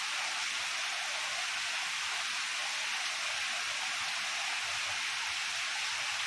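Heavy rain falling steadily: an even hiss.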